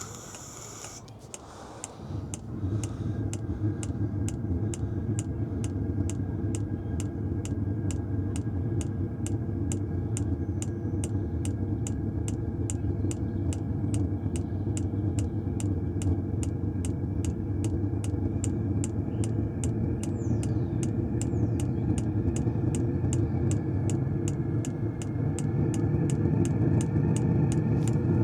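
Diesel heater starting up: its fuel dosing pump ticks evenly, about two to three times a second, as it lifts fuel from the vehicle's tank, while a steady low running hum from the heater's blower starts about two seconds in and grows louder toward the end.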